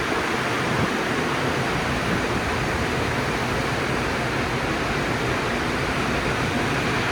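Conveyor tunnel car wash running: a steady rushing noise of its equipment at work.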